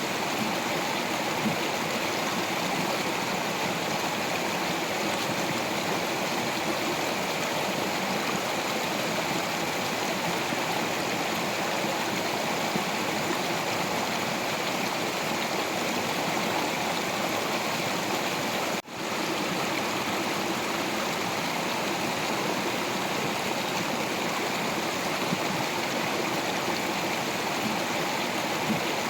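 Stream water flowing and splashing over rocks in a steady, even rush. The sound cuts out for an instant about two-thirds of the way through.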